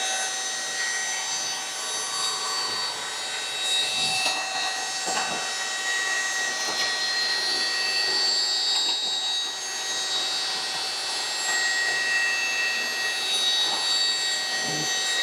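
Small suction vacuum running steadily with a high motor whine, sucking dust from a refrigerator's condenser coil area, with a few brief scrapes of the nozzle against the parts.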